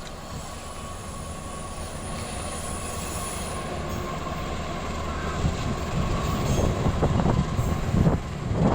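Train approaching and passing close by, growing steadily louder, with a steady high tone over the rumble. From about halfway through, wheels clatter over the rail joints.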